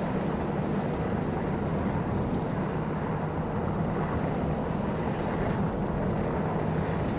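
Vehicle driving steadily on a snow-covered road: engine drone and tyre noise as a constant low hum with no changes.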